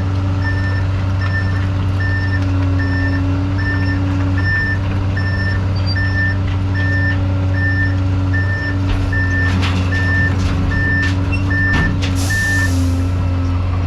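A vehicle back-up alarm beeps steadily, about one and a half beeps a second, over the steady drone of a heavy diesel engine. The beeping stops shortly before the end, just after a short burst of hiss.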